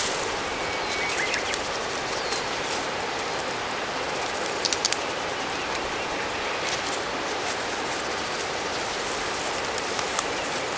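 Mountain stream rushing steadily over rocks, with a cluster of a few sharp clicks about halfway through.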